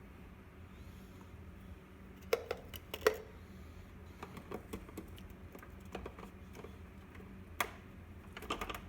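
Plastic juicer parts clicking and knocking as they are handled and taken apart: a few sharp clicks around two and three seconds in, another near the end, over a low steady hum.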